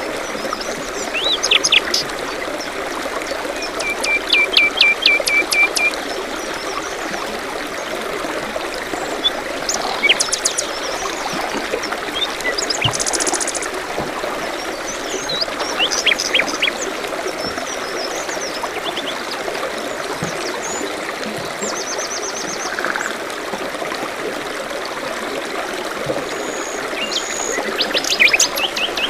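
Water trickling and babbling steadily, with several small songbirds chirping and trilling over it. There are a run of repeated notes about four seconds in, a very fast high trill around the middle, and scattered chirps throughout.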